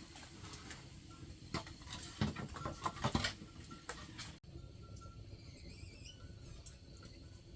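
A quick run of light knocks and clicks in the first half, over faint bird chirps that carry on after an abrupt cut.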